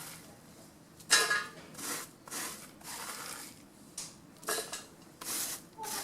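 Small fallen branches being cut up by hand into wood chips: a series of short crunching snips, roughly one a second, the loudest just over a second in.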